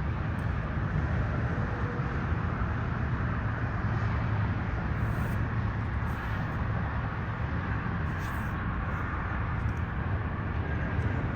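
Steady low rumble of vehicle noise, with no distinct events standing out.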